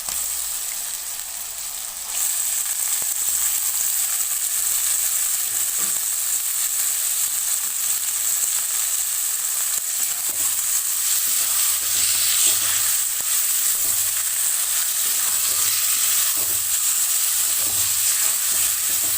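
Chicken pieces sizzling in oil and masala in a kadai as they are stirred and fried. The sizzle gets louder about two seconds in and then runs on steadily.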